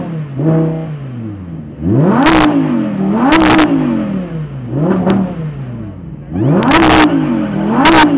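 Audi R8 V10's 5.2-litre naturally aspirated V10 engine revved in about five quick blips, each rising sharply and falling back toward idle.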